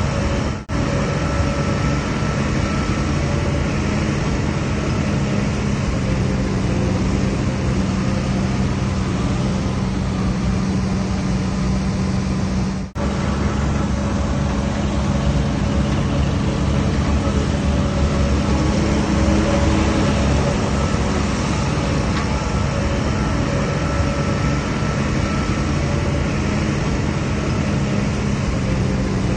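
DH17C3 bulldozer's diesel engine running steadily with a deep, even hum, broken twice by brief dropouts: once near the start and once about halfway.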